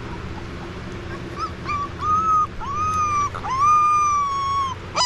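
Three-week-old Cane Corso puppy whining: a run of high, drawn-out cries starting about a second and a half in, some held for about a second and sliding down at the end, over a steady low hum.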